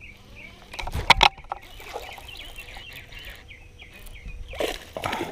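A loud clatter of knocks about a second in, then many faint short chirps, and a short rushing splash-like burst near the end, as a bass is hooked and fought at the side of a fishing boat.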